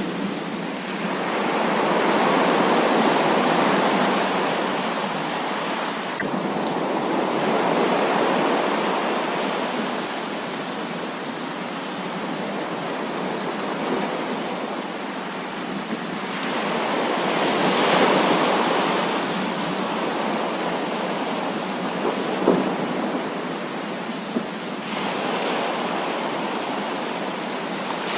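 Heavy rain falling steadily, with rolling thunder that swells and fades several times. There are two short sharp cracks in the second half.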